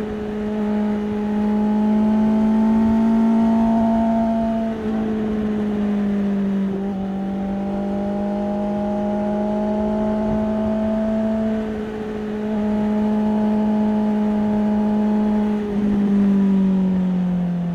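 Honda CB650R inline-four engine running through an IXIL aftermarket exhaust under way, its note climbing slowly in long pulls broken by a few brief dips in revs. Near the end the revs fall away.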